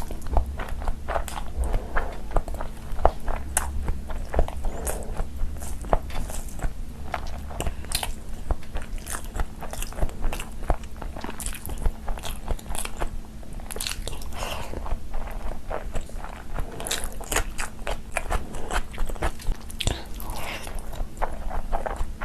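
Close-miked eating sounds: a person biting and chewing food with wet, smacking mouth noises and irregular crunches and clicks.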